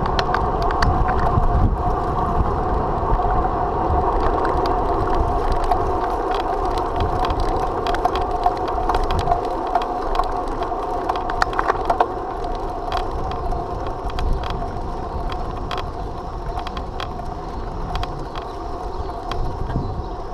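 Bicycle being ridden along the road: a steady hum from tyres and drivetrain, with frequent small rattling clicks and a low rumble.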